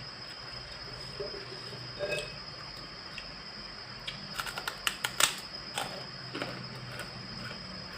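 Close-miked eating sounds: scattered wet mouth clicks and chewing, bunched into a quick run of sharp clicks a little past the middle, over a steady faint high whine.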